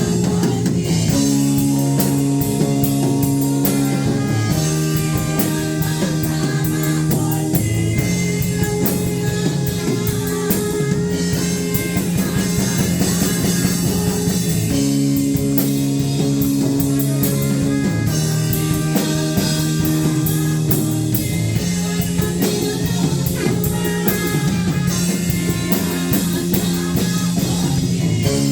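A live worship band playing an instrumental passage: electric guitar and sustained chords over a steady drum-kit beat, with the chord changing every couple of seconds.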